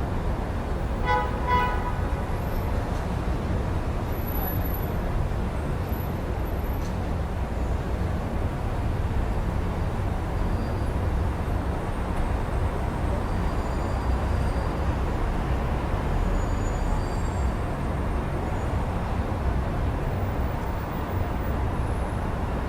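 Steady city traffic rumble heard through an open window, with a brief pitched call or honk about a second in.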